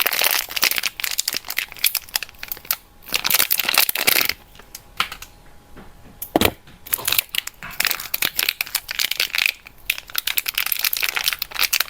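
Soap wrappers crinkling and rustling in irregular bursts as bars of soap are unpacked by hand, with a quieter lull around the middle and a single duller knock just after halfway.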